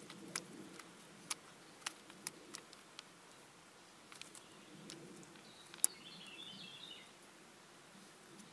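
Irregular sharp cracks, several in the first three seconds and the loudest one near six seconds in. A bird gives a short, rapid trill between about five and a half and seven seconds.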